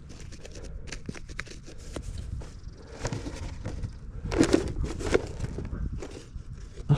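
Soil and grass crunching and rustling as a dug hole is worked by hand, with many small scattered clicks and a couple of louder crunches about four and a half and five seconds in.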